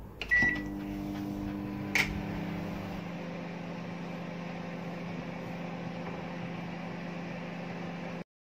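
Microwave oven starting with a short beep, then running with a steady hum on a three-minute cooking cycle, with a sharp click about two seconds in. The sound cuts off suddenly near the end.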